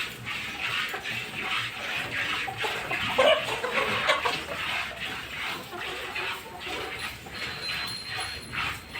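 A cow being milked: milk squirting into a pail in a steady rhythm of about two strokes a second. A short animal cry comes about three seconds in.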